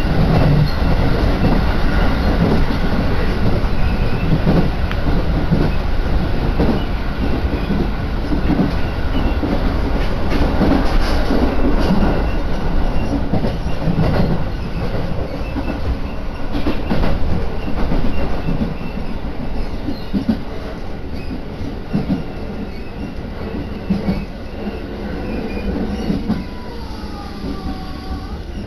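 Electric commuter train heard from inside the carriage: steady running rumble with the wheels clacking over rail joints. It grows quieter over the last several seconds as the train slows, with a short wavering whine near the end.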